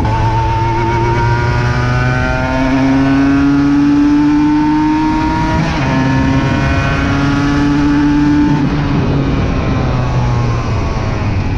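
Aprilia RS 125 engine under hard acceleration, its pitch rising steadily through a gear, with a gear change about six seconds in and another climb before the revs drop back about nine seconds in.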